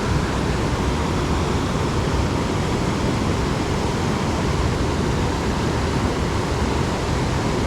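Steady rushing of fast-moving water in a dam tailwater, an even noise with no breaks or distinct events.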